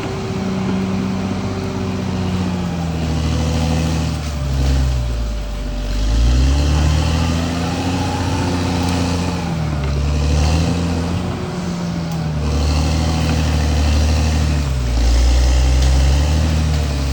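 Caterpillar D6R XL bulldozer's diesel engine running hard, its pitch sagging and recovering several times as the machine works.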